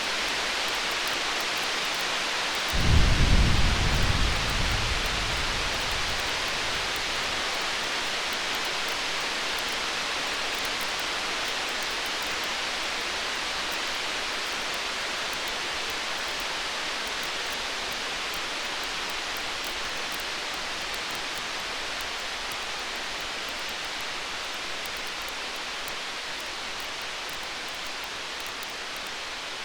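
A steady hiss of storm ambience with faint crackling ticks. About three seconds in, a distant roll of thunder rumbles deep and low, then fades away over a few seconds.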